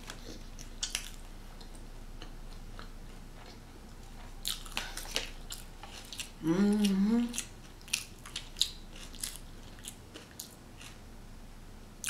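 A person chewing a mouthful of bacon cheeseburger close to the microphone, with wet smacking and clicking mouth sounds throughout. There is one short sound of the voice about six and a half seconds in.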